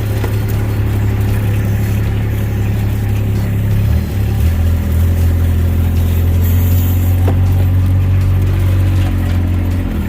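Off-road utility vehicle's engine running steadily as it is driven. About four seconds in, the engine note dips briefly and settles into a new steady pitch that then rises slowly.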